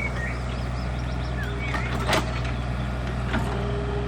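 Tracked digger's diesel engine running steadily at low revs during backfilling, with a short knock about two seconds in and another a little over three seconds in. A few short, high chirps sound over it near the start.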